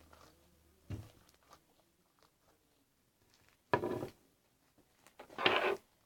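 Fluffy slime being squished and worked by hand: a short squish about a second in, then two longer squishing spells in the middle and near the end.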